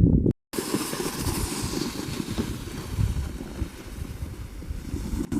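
Wind buffeting the microphone: a steady rushing hiss with an uneven low rumble, starting just after a brief dropout in the sound.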